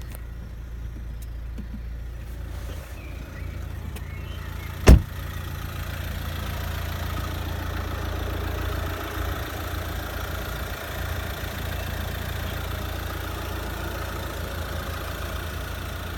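Mercedes-Benz A180 CDI's diesel engine idling steadily, with a single sharp knock about five seconds in.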